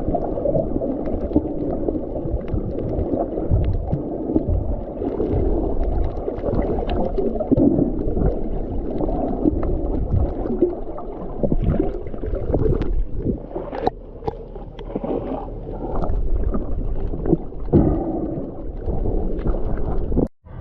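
Muffled sloshing and gurgling of water, with scattered knocks and clicks, cutting off suddenly near the end.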